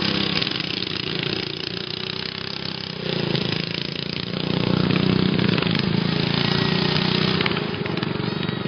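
Racing riding lawn mower engines running hard, their pitch and loudness rising and falling as they rev and pass, with swells about three seconds in and again around five seconds.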